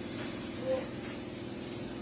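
A steady low engine hum, with a brief single tone about two-thirds of a second in.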